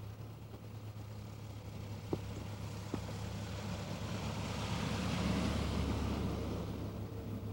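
A vehicle passing by, its noise swelling over a few seconds and fading away, over a steady low hum.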